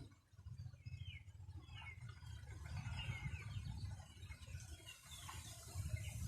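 Small birds chirping: a scatter of short, high chirps over a faint low rumble.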